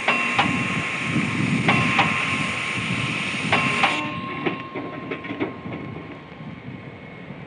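A hammer striking steel on an anvil in pairs, each strike leaving a ringing tone, over a steady rushing noise. About four seconds in, the sound turns quieter and duller, with only faint taps.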